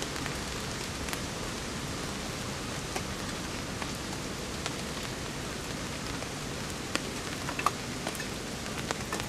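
Steady rain falling, with scattered sharp taps of individual drops, a few of them a little louder about two thirds of the way through.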